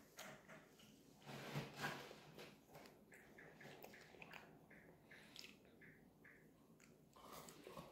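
Faint chewing and small mouth clicks of a person eating a fish fillet burger, with a soft noisy swell about a second and a half in.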